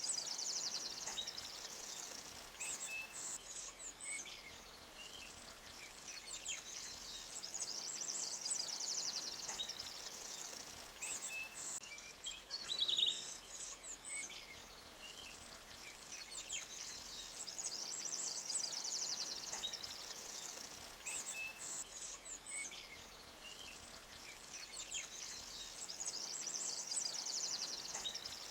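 Small songbirds chirping and trilling in high, rapid runs that swell and fade every several seconds, with one louder chirp about halfway through. Under them is a faint, steady rush of a forest stream flowing over rocks.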